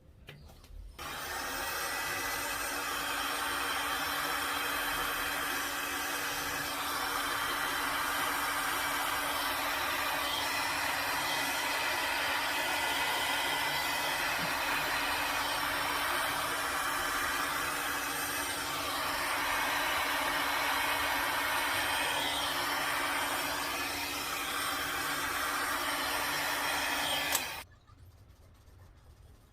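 A handheld hot-air blower runs steadily with a motor whine and a rush of air, the kind used to push poured resin into wave shapes. It switches on about a second in and cuts off suddenly near the end.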